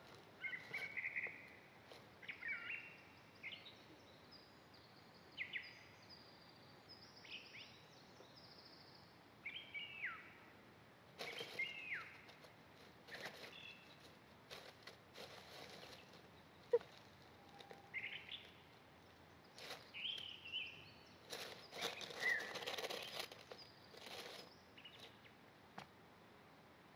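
Wild birds calling: scattered short chirps and quick downward-slurred calls, some in short clusters, over a faint background hiss.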